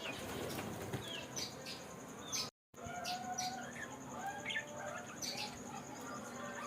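Budgerigars chirping and warbling, many short overlapping calls and rising and falling notes. The sound drops out completely for a moment a little over two and a half seconds in.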